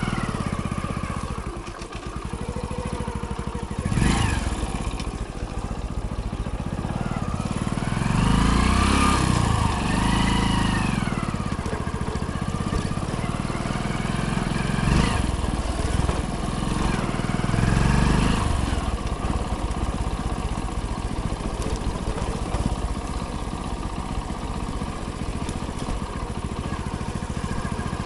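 Hero Splendor's single-cylinder four-stroke engine running while riding, its pitch rising and falling twice with the throttle. Short knocks about four seconds in and again around fifteen seconds.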